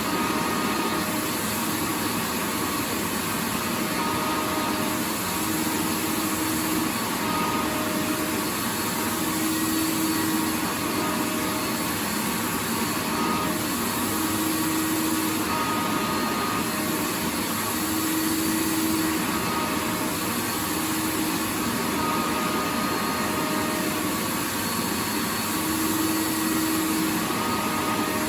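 Vacuum cleaner running steadily, a continuous even rushing noise with faint hum tones that fade in and out every second or two.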